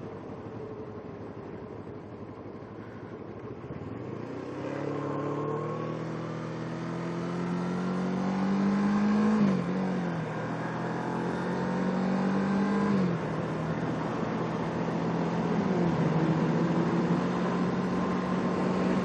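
Kawasaki Ninja 650R's parallel-twin engine pulling away, rising in pitch under acceleration with a sharp drop at each upshift, about halfway through and again a few seconds later, then holding a steady cruising note. Wind and road noise rush underneath.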